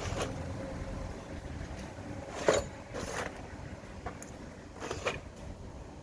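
Several short, sharp knocks and clinks from tools and parts being worked on a water pump under repair, the loudest about two and a half seconds in, over a low steady rumble.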